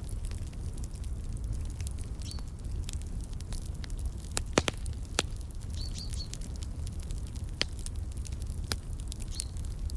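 Wood fire crackling in a fireplace: irregular sharp pops and snaps over a steady low rumble, the loudest pops a little after four and a half seconds and at about five seconds. Short high bird chirps come a few times.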